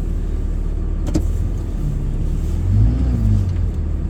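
Four-wheel-drive truck's engine running, heard from inside the cab, with a short rev that rises and falls about three seconds in and a single click about a second in.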